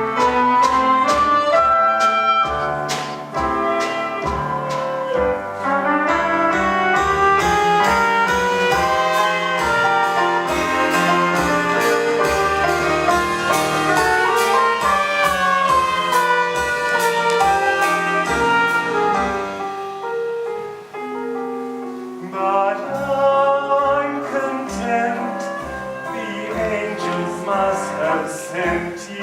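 Jazzy orchestral music with brass and a steady percussive beat; it thins out briefly about 21 seconds in, then picks up again.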